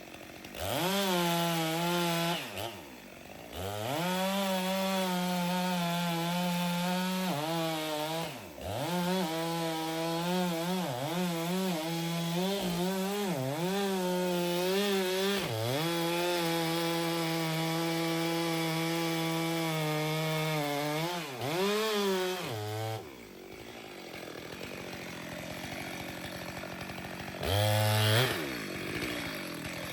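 Husqvarna chainsaw held at full throttle through a long cut into a dead poplar trunk. The engine pitch wavers and dips as the chain bogs in the wood, then drops to idle, with one short blip of the throttle near the end.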